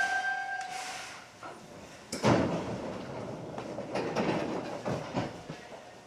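Interior running sound of a Hankyu 7300 series train car. A high two-tone squeal fades out in the first second. About two seconds in comes a loud clunk, followed by wheels knocking over rail joints in pairs, the clicks of a train moving slowly.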